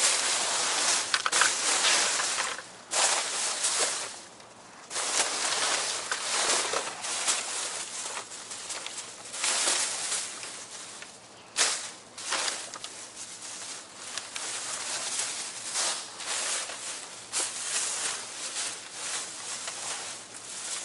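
Trash being rummaged through by hand in a dumpster: plastic bags and packaging rustling and crunching in irregular bursts, with a few sharp knocks.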